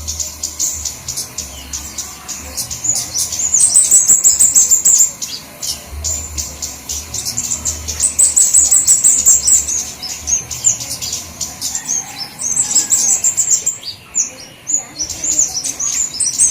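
Flowerpeckers chirping and twittering, very high-pitched and rapid, several birds at once. The calls swell into loud spells every few seconds, as in a looped bird-lure recording. A low hum comes and goes underneath.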